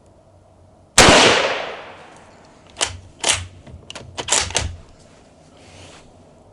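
A single rifle shot from a Yugoslavian M48 Mauser bolt-action rifle firing 7.92×57 mm M49 surplus ammunition, a sharp crack with a reverberating tail about a second in. After it come a series of short metallic clacks, the bolt being worked to eject the case and chamber the next round.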